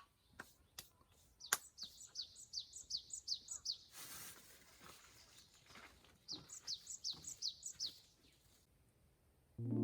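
A bird singing outdoors: two runs of quick, high, falling notes, about three a second, with a brief rustle of noise between them. A few faint clicks come near the start, and piano music begins near the end.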